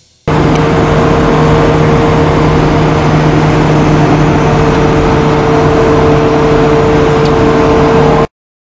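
A car engine running at a steady speed, with a constant low hum and no revving. It cuts in just after the start and cuts off suddenly near the end.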